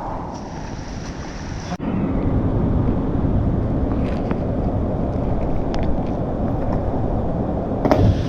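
Steady rushing of a waterfall, with a break about two seconds in after which it is louder and deeper.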